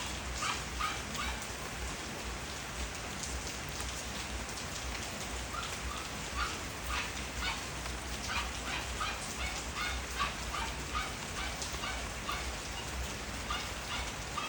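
Steady rain falling on a garden, with many sharp drops tapping irregularly, several a second.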